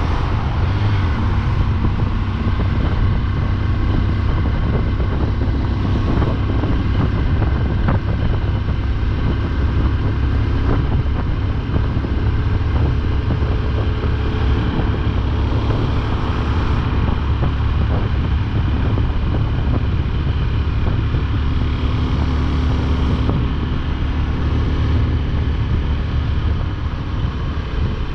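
Motorcycle engine heard from the rider's seat, running at steady cruising revs with a constant low hum over a haze of road noise.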